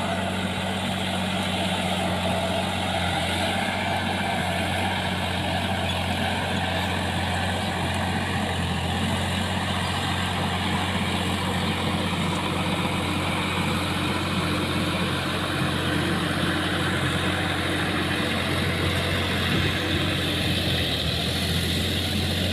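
Sonalika tractor's diesel engine running at a steady, deep even note, with no change in speed.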